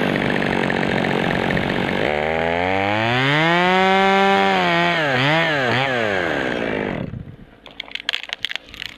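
Two-stroke chainsaw running, its engine rising steeply in pitch to a high rev about three seconds in, blipped up and down a few times, then falling away about seven seconds in, leaving a few scattered clicks.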